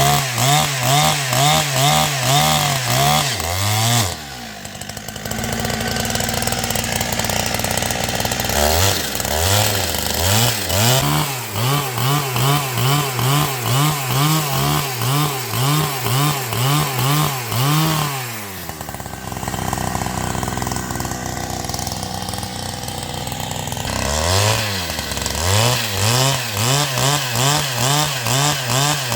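Chainsaw cutting wood, its engine pitch rising and falling about twice a second as it loads in the cut. It runs more steadily twice, from about 4 s in and again from about 19 s in.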